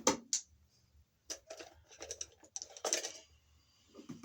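Irregular sharp clicks and rustling as stripped electrical wires and a twist-on wire nut are handled: two clicks near the start, then a cluster of clicks and scraping in the middle.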